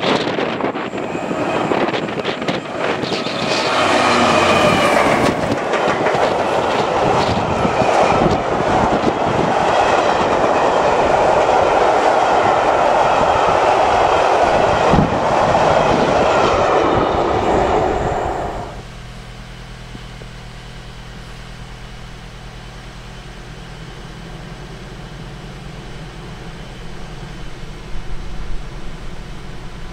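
A1 Peppercorn steam locomotive 60163 Tornado, with a diesel locomotive coupled ahead, passing at speed, followed by its coaches rolling by with a clickety-clack of wheels over rail joints. About two-thirds through, the train sound cuts off abruptly and gives way to a steady low hum.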